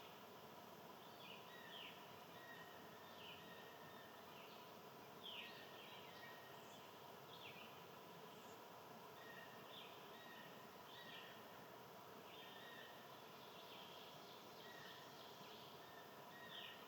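Songbirds chirping faintly: short down-slurred chirps and calls repeating every second or so over a steady outdoor background hiss.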